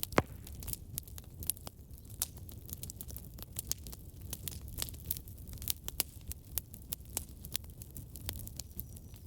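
Wood fire burning in a fireplace: a steady low rumble of flames with frequent irregular crackles and snaps, one loud pop just after the start.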